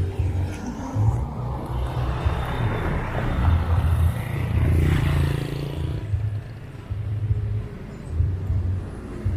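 Street traffic: a vehicle passes close, its noise swelling to a peak about five seconds in and then fading, over a low, uneven rumble.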